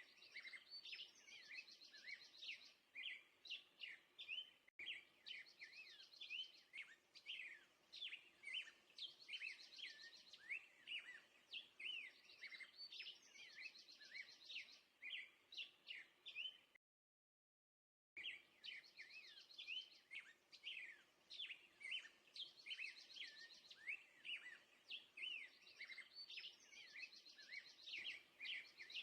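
Small songbirds chirping and twittering in quick, sweeping notes, with short buzzy trills recurring every few seconds. The sound cuts out completely for about a second midway, then the chirping resumes.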